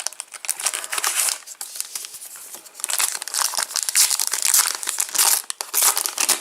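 Crinkly wrapper of a Match Attax trading-card packet being crumpled and torn open, a dense crackle that grows busier and louder about halfway through.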